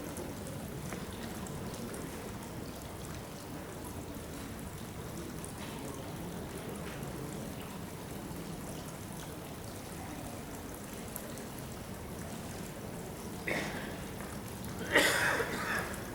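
Steady room noise of a gathering with a faint low murmur. Near the end come two short, loud, noisy sounds, the second about a second long and the loudest.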